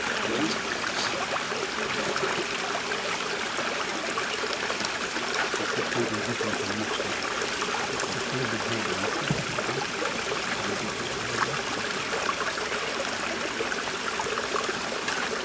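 Steady rushing of flowing stream water, an even hiss that holds unchanged throughout.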